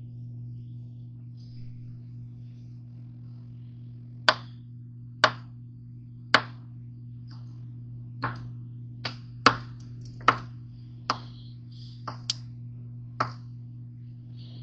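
Knife cutting hot dogs on a cutting board: about a dozen sharp knocks at uneven intervals, starting about four seconds in, over a steady low hum.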